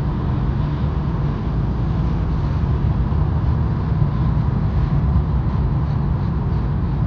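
A 2022 Mercedes-AMG driving steadily on a wet road: an even, low rumble of engine and tyre noise that does not rise or fall.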